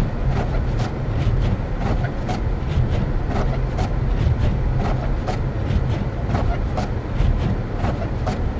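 Car driving on snow-covered streets: a steady low rumble of engine and tyres, with frequent light, irregular clicks and crunches over it.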